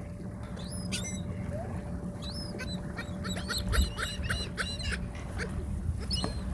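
Small birds chirping in quick, high-pitched calls, thickest in the middle stretch, over a low rumble.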